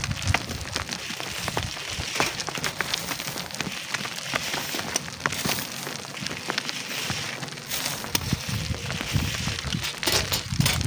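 Wind gusting on the microphone, with low rumbling buffets near the start and again near the end, over a steady crackling hiss full of small clicks.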